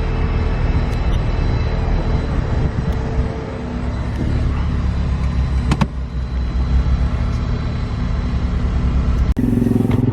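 Car engine running at a steady idle, with one sharp click about six seconds in. Near the end the sound changes abruptly to a different steady engine note.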